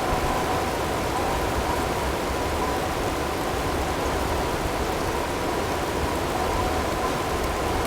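Snowstorm ambience: a steady rush of wind with hail pattering, and faint steady tones mixed in underneath.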